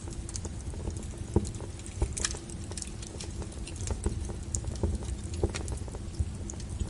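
Wood fire crackling: irregular sharp pops and snaps over a steady low rumble of burning logs, with a louder pop about a second and a half in.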